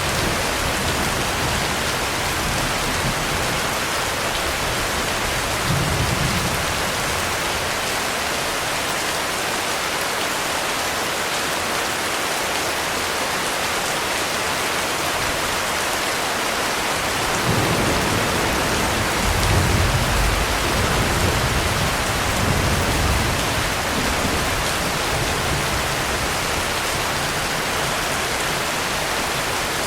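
Heavy rain falling in a steady, dense hiss, with low rolls of thunder rumbling under it: a short one about six seconds in and a longer, swelling roll from a little past halfway.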